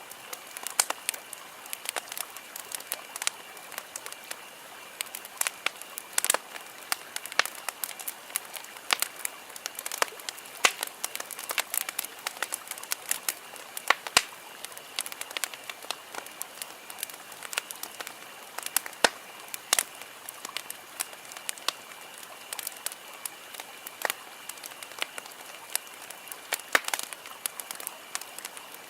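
Campfire wood crackling and popping: irregular sharp snaps, several a second, with occasional louder pops, over a faint steady high-pitched background tone.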